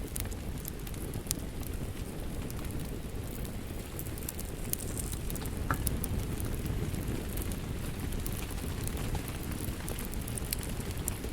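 Wood fire in a fireplace burning with a steady low roar and frequent small sharp crackles and pops.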